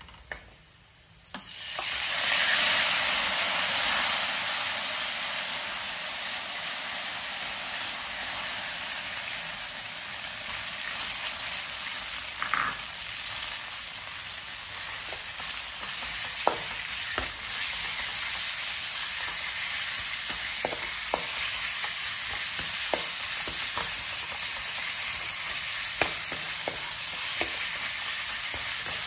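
Minced pork hits hot oil and garlic in a wok and sizzles loudly from about a second in, then fries steadily while a wooden spatula stirs it, with scattered sharp taps and scrapes of the spatula against the pan.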